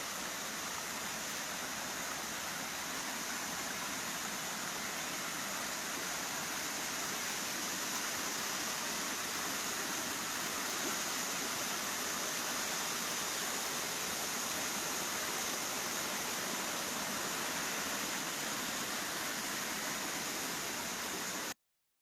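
Waterfall rushing, a steady even roar of falling water that cuts off suddenly near the end.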